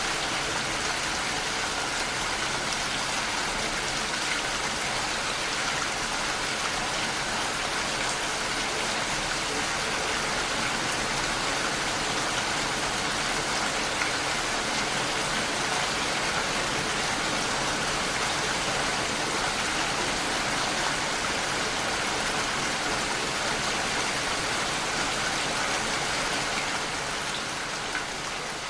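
Steady rain pattering against a window pane, a dense even hiss dotted with faint drop ticks, beginning to fade out near the end.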